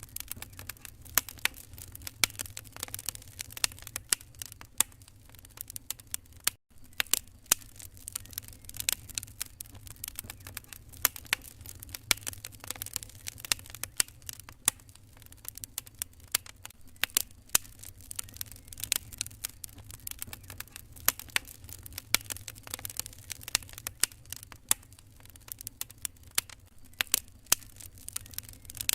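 Wood fire crackling in a fireplace: irregular sharp pops and snaps over a steady low rumble, with a momentary dropout about six and a half seconds in.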